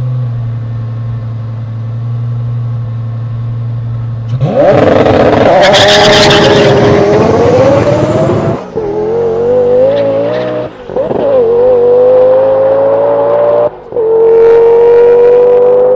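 Twin-turbo V10 of an Underground Racing tuned Lamborghini Gallardo running steadily at the line, then launching with a sudden loud blast about four seconds in. The engine note rises hard through three upshifts, each marked by a brief drop.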